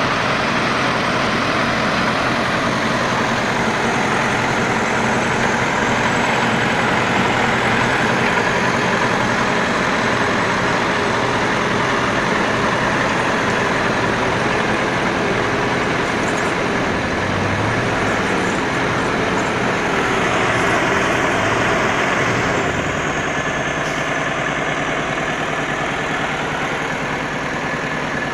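KamAZ log truck's diesel engine running steadily under load, dropping a little in level about three-quarters of the way through.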